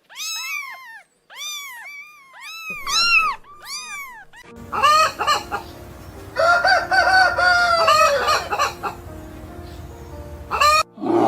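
Chickens calling in a quick run of short squawks, followed by a rooster crowing, one long call about six seconds in.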